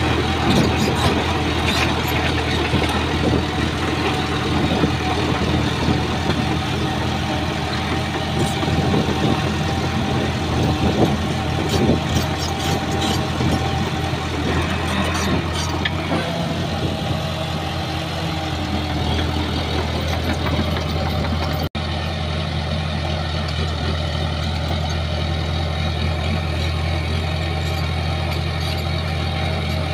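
Heavy diesel engine of a bulldozer running steadily, with scattered metallic clanks and rattles over the first half. A brief break about 22 seconds in, after which the engine runs more evenly.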